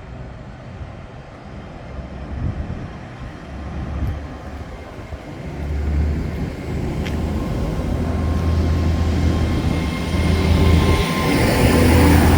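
Great Western Railway passenger train pulling out of the station, its engines humming low and growing steadily louder as it gathers speed and the carriages roll past.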